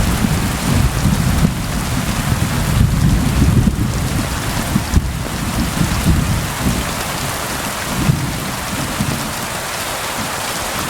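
Steady rain hissing on a surface, under a low rumble of distant thunder. The rumble fades in the last few seconds while the rain goes on.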